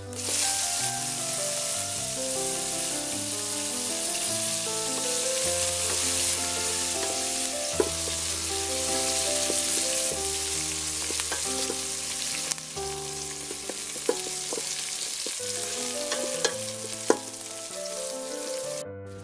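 Lemongrass, lime leaves and ginger slices dropped into hot oil and spices in an aluminium pot, sizzling hard at once and stirred with a wooden spoon, with a few knocks against the pot. The sizzle eases about twelve seconds in and dies away just before the end, over background music.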